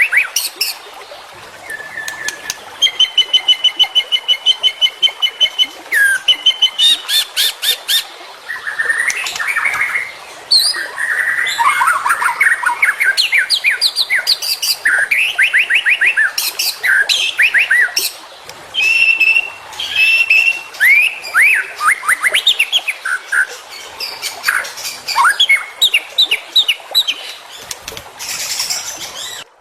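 White-rumped shama (murai batu) song as used in a tutoring recording: a continuous run of varied phrases, fast trills of repeated notes, held high notes and rising and falling whistles, changing every second or two.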